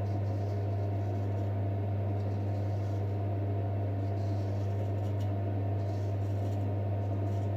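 A steady low hum throughout, with a few faint, short scrapes of a straight razor drawn down through stubble.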